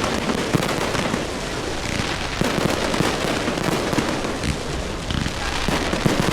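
Fireworks display going off without a pause: many sharp bangs and crackles overlapping into a dense, continuous barrage.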